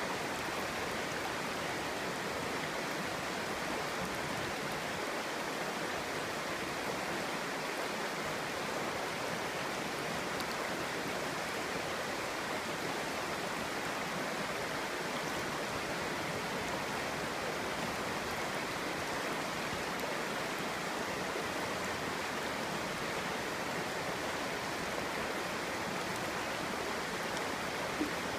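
Clear stream water flowing and babbling over stones, a steady rushing murmur.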